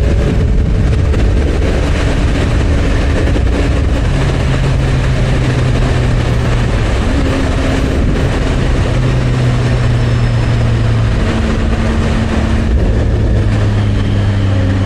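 A motorcycle of over 800 cc cruising at highway speed, with heavy wind and road noise. Its engine note shifts in pitch a few times.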